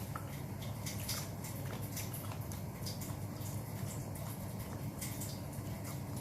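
Close-miked eating sounds from chewing grilled chicken: irregular wet mouth clicks and smacks over a steady low hum.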